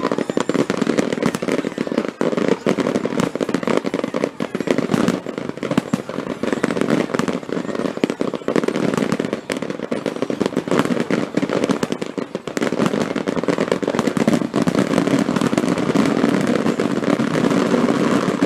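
Aerial fireworks in a grand-finale barrage: many shells bursting in rapid, overlapping succession, a continuous run of bangs and crackling with no real gaps.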